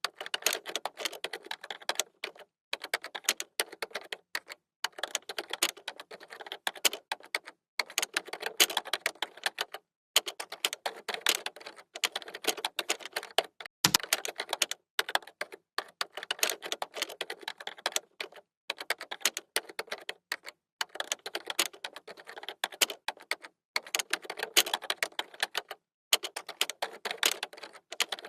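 Computer keyboard typing: rapid key clicks in runs of a few seconds, broken by short pauses.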